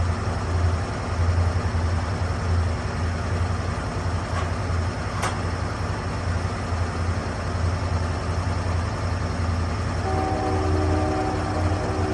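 Lucas Mill 10-30 swing blade sawmill running, its engine giving a loud steady drone. There are two brief ticks around the middle, and steady higher-pitched tones join in near the end.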